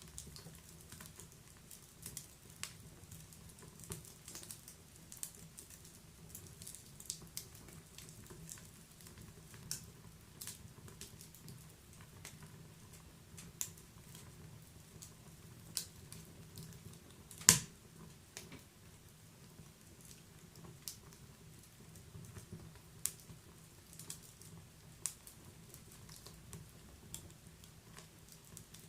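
Wood fire crackling in a fireplace: irregular small snaps and pops over a low steady noise, with one much louder pop about halfway through.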